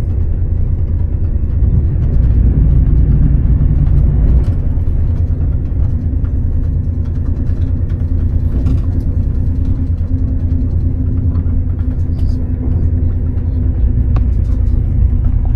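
Steady low rumble of a passenger train running, heard from inside the carriage, with a faint steady hum joining about halfway through.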